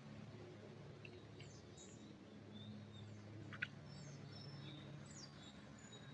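Faint, scattered bird chirps and short whistles, with one sharp click about three and a half seconds in, over a low steady hum.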